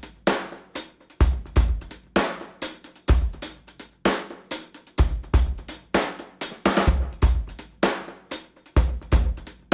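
Music: a steady drum-kit beat of kick drum, snare and hi-hat, with little or no melody.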